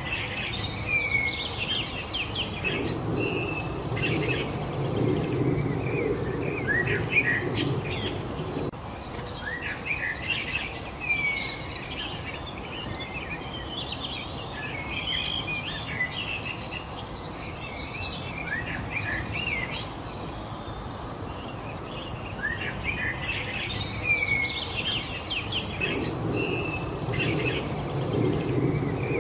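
Several songbirds chirping and trilling in overlapping short phrases, over a steady outdoor background rush that swells for a few seconds twice.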